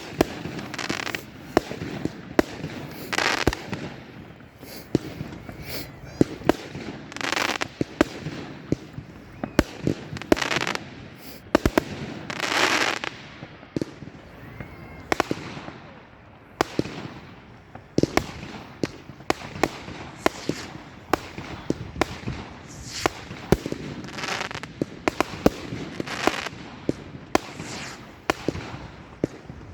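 Fireworks display: many sharp bangs and pops throughout, with a louder hissing rush every few seconds.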